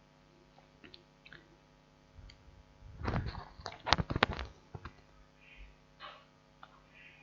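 Light clicks and rustles from a laptop keyboard being cleaned, with a denser run of sharper clicks about three seconds in and two brief soft hisses near the end.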